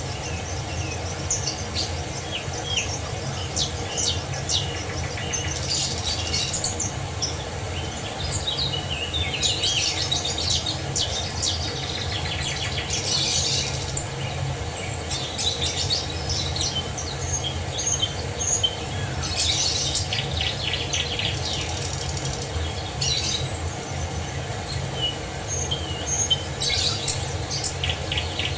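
Several songbirds chirping and trilling in short, overlapping phrases over the steady rushing of a waterfall.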